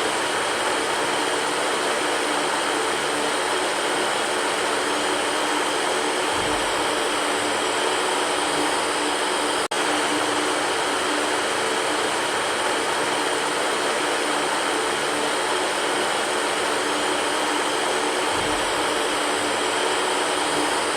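Electric fan running with a steady whirring rush and a steady low hum. It drops out for a split second about ten seconds in.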